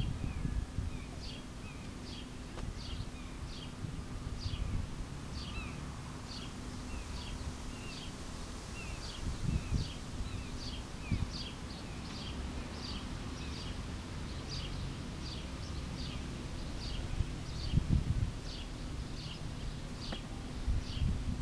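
A bird calling over and over, short high chirps at about three every two seconds, over a low rumble. There are a few dull low thumps around the middle and a louder cluster near the end.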